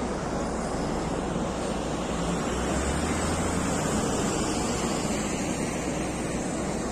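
Steady rushing noise of an airplane cabin, with a low hum that swells briefly a little after two seconds in.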